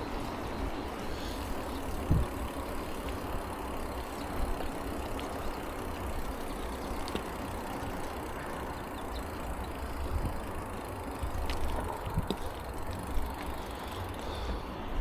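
Bicycle riding noise: a steady low rumble of wind on the microphone and tyres on the road, with a few sharp knocks from bumps or rattles.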